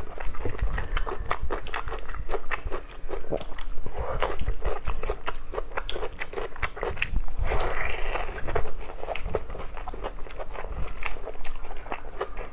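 Close-up eating sounds of biting and chewing soft braised meat on the bone: wet smacking and clicking many times a second, with a louder, noisier stretch about eight seconds in.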